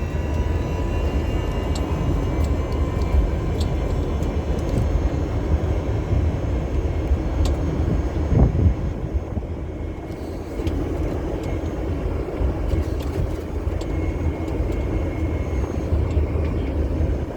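Steady low rumble of a moving vehicle heard from inside, with a few light clicks and a brief falling sweep about halfway through.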